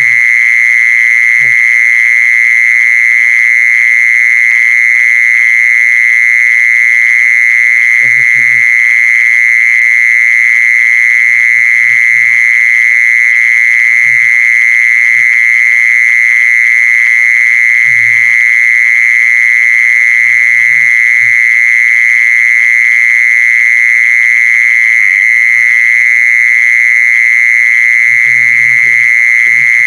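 An insect, called jee-son in Thai, singing one loud, steady, high-pitched trill that never breaks.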